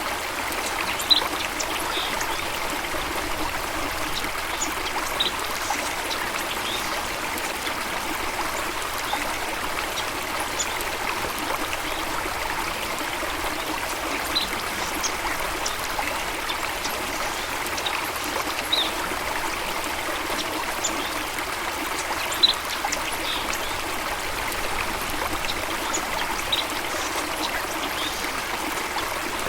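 Steady rush of flowing water, with scattered short bird chirps, a few of them a little louder.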